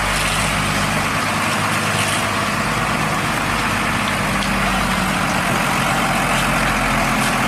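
Hino cement mixer truck's heavy diesel engine running steadily at constant speed, with a loud, even rushing noise over it.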